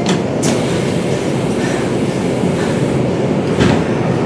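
Hanshin 1000 series electric train, a steady rumble with a few sharp clicks: one right at the start, one about half a second in, and one near the end.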